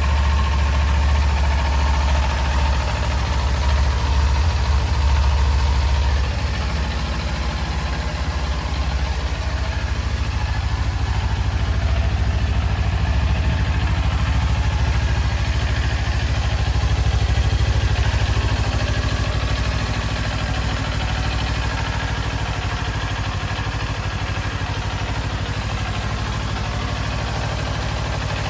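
2018 Kawasaki Ninja 400's 399 cc parallel-twin engine idling steadily, a little louder for the first six seconds or so, then settling slightly lower.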